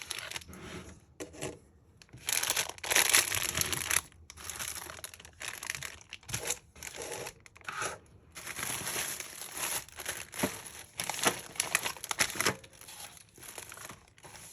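Packaging crinkling and rustling in irregular bursts as snack items are handled and taken out of a box, loudest a couple of seconds in.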